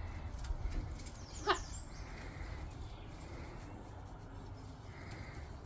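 A pet parrot gives one short, sweeping squawk about a second and a half in, over a steady low rumble.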